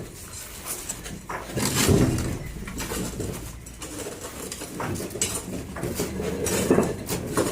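A bird cooing in several low phrases, with scattered clatter among them.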